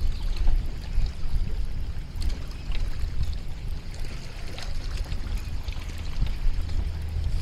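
Water trickling and lapping around a fishing kayak, over a steady low rumble of wind on the microphone, with faint scattered light splashes.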